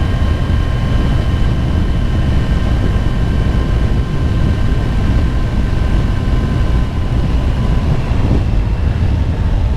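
Motorcycle cruising steadily, engine and wind noise with a thin steady whine above them that drops slightly in pitch in the second half.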